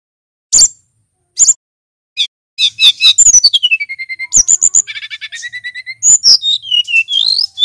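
Male brown-chested jungle flycatcher singing: three single sharp notes, then from about two and a half seconds in a fast, continuous run of chirps, a whistle sliding down in pitch, a quick rattling series of repeated notes, and more whistles sliding up and down.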